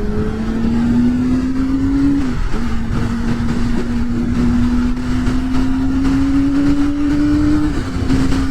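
Kawasaki Ninja ZX-25R's inline-four running through a Yoshimura R77 full exhaust under way, its note slowly rising as the bike pulls, with brief dips in pitch about two seconds in and near the end. A low rush of wind runs under the engine.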